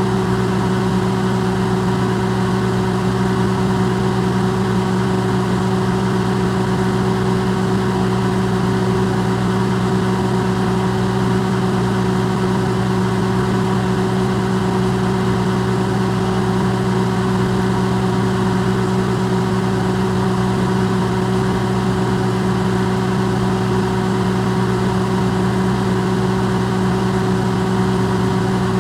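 Electrolux microwave oven running, its amplified steady hum and whir with a few fixed tones over a noise haze, unchanging throughout.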